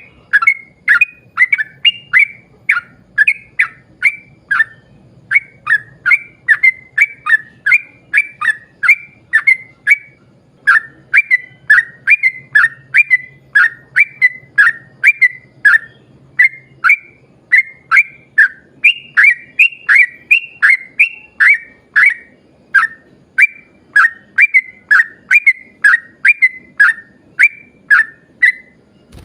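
Yellow-vented bulbul (trucukan) singing a long, unbroken run of short, clear whistled notes, about two a second.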